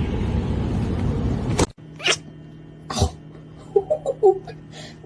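A loud, steady rustling noise that cuts off abruptly, then a couple of clicks and several short, faint kitten mews about four seconds in.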